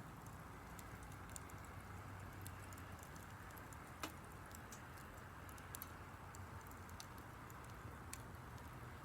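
Wood fire crackling faintly, with scattered small ticks and snaps and one louder pop about four seconds in, over a low steady rumble.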